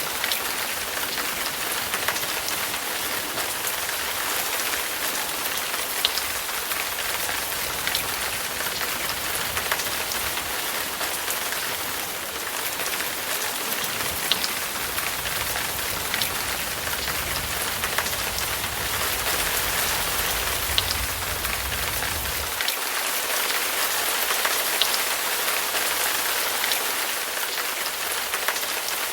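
Steady rain, a dense hiss with scattered sharp drop ticks. A low rumble underneath stops about three-quarters of the way through.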